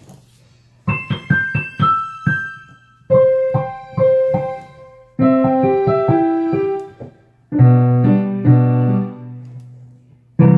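Piano played in short phrases of struck notes, each about two seconds long with a brief pause between. Each phrase sits lower in pitch than the one before, and a new low phrase starts at the very end.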